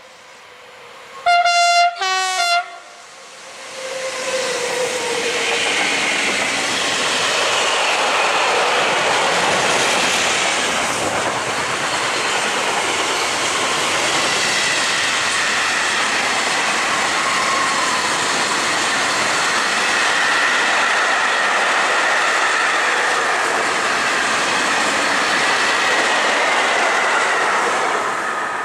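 A locomotive horn gives two short blasts, the second with a lower tone added. Then a long freight train of covered hopper wagons passes close by with a steady rush of wheels on rail and a high whining tone over it.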